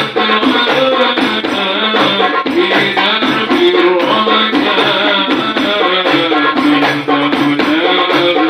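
Hadrah ensemble music: rebana frame drums and jingling percussion keeping a steady beat under a continuous melody.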